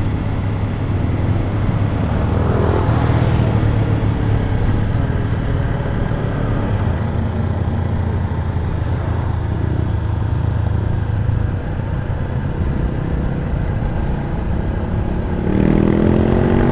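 A motorcycle engine running steadily at low revs, with a vehicle passing about three seconds in; near the end the engine revs up with rising pitch as the bike pulls away.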